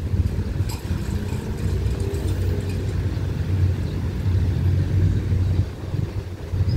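Low, steady rumble of engines: a diesel train approaching in the distance, with road vehicles waiting at the level crossing.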